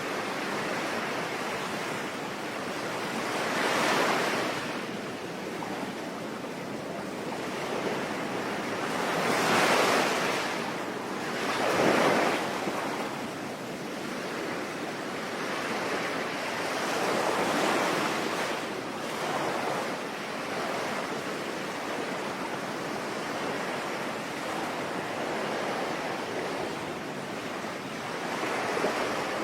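Sea waves breaking and washing on a shore, each surge swelling and falling away over a couple of seconds, the strongest about ten and twelve seconds in, over a steady hiss of rain.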